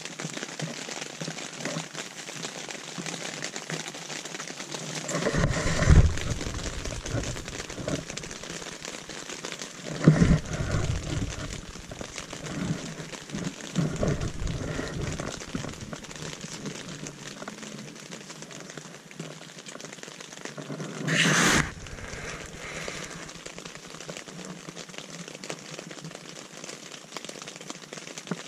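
Steady rain pattering on a tent, heard from inside. Several louder bumps and rustles break in at intervals, the sharpest and loudest a brief burst about two-thirds of the way through.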